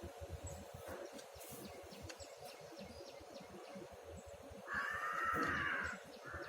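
Indian peafowl (peacock) giving one loud call about a second long, rising and falling, a little past two-thirds of the way in, with a second, fainter call just starting at the end.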